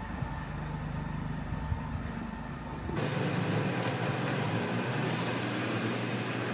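Street traffic: a motor vehicle's engine running with a low steady hum, then, after an abrupt change about three seconds in, a steadier, brighter wash of road noise.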